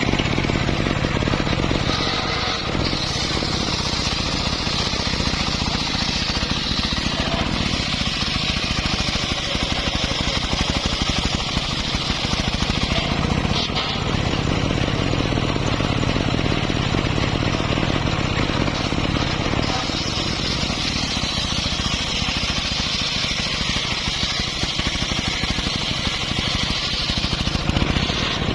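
Homemade band saw running steadily while its blade cuts teak. Over the steady hum of its drive, a hissing whine of the blade in the wood rises and falls in long stretches.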